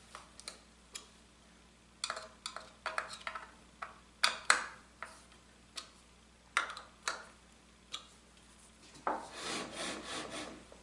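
Light clicks and knocks of tools and miter gauge parts being handled on a workbench, then a scraping rub over the last two seconds.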